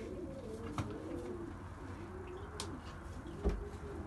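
Domestic pigeons cooing continuously in a coop, their low rising-and-falling coos overlapping. There are a few light clicks, and a louder thump about three and a half seconds in.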